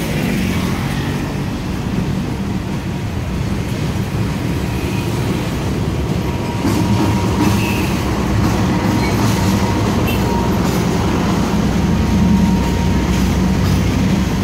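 A CC 206 diesel-electric locomotive passing close by with its engine running, followed by passenger coaches rolling over the track with a rumble and clatter that grows louder about halfway through. A faint steady whine sounds in the middle.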